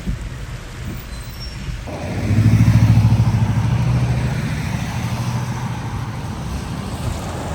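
A motor vehicle's engine running close by, coming in suddenly about two seconds in, loudest just after and then slowly fading, over a steady noisy hiss of rain and water.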